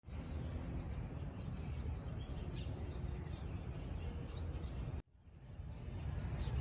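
Rural outdoor ambience: a steady low rumble with small birds chirping now and then. The sound cuts out abruptly about five seconds in and fades back up.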